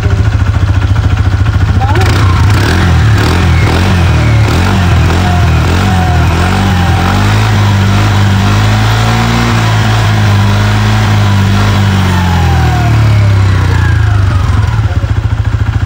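Kymco KRV scooter's single-cylinder engine running, revved up and held through the middle and settling back to a pulsing idle near the end. It runs smoothly with a substitute ECU fitted in place of the one suspected of flooding the engine and causing hard starting.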